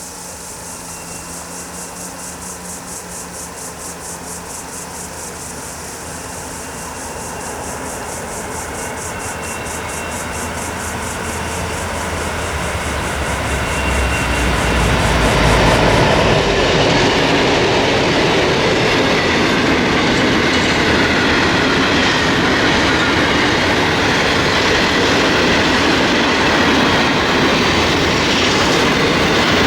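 A diesel-hauled freight train approaches, its locomotives growing steadily louder and passing about 15 seconds in. After them comes the steady rumble and clickety-clack of wagons rolling by.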